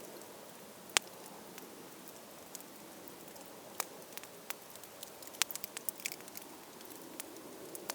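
Wood campfire crackling over a steady low rush of flame, with a sharp pop about a second in and a quick run of pops a little past the middle.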